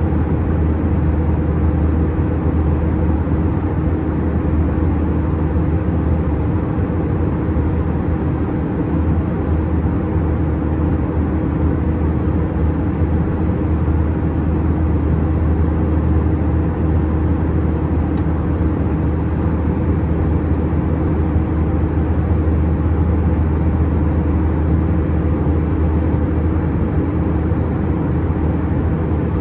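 Steady cabin drone of an Airbus A320-211 in flight, its CFM56 engines and the rushing airflow heard from a window seat. A deep, even hum with a steady tone above it, unchanging throughout.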